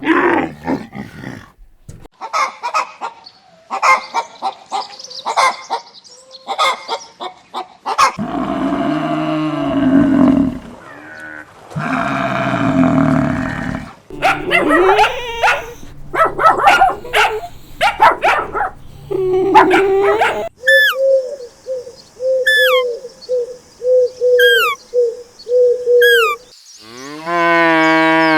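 A run of farm-animal calls: short calls in the first seconds, then two long, low moos from cattle about a third of the way in. Later comes a regular series of short calls about once a second, and a rising call near the end.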